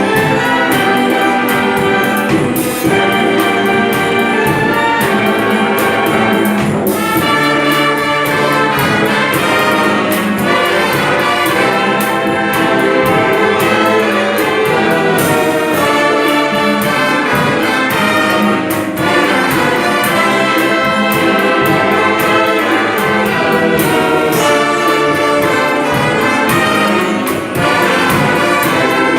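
Brass band playing an arrangement of a Brazilian pop ballad, with trumpets and trombones carrying the melody over steady percussion.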